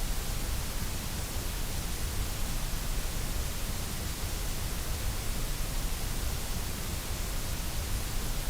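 Steady, unbroken synthetic noise spread evenly across all pitches, a constant hiss like white noise played for sleep.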